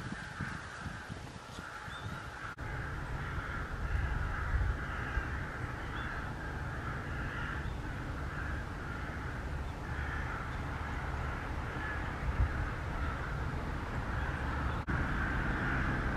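Birds calling at intervals over a steady low rumble.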